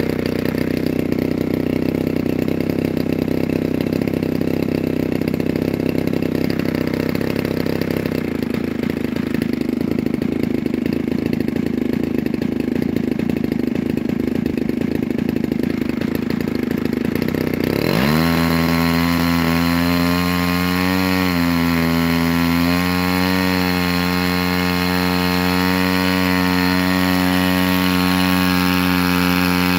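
DLE 35RA 35cc single-cylinder two-stroke gas engine turning an 18x10 propeller, running steadily at low throttle. About two-thirds of the way through it is throttled up quickly to high speed and held there, dipping briefly a couple of times.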